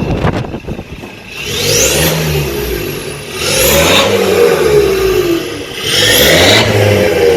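BMW 320d's four-cylinder turbodiesel revved three times through a custom stainless exhaust with the back box and resonator deleted, each rev rising in pitch and then falling back.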